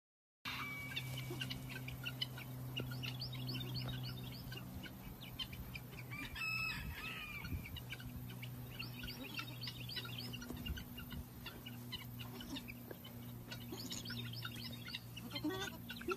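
Birds chirping in quick runs of short high calls over a steady low hum, with one brief fuller call about six and a half seconds in.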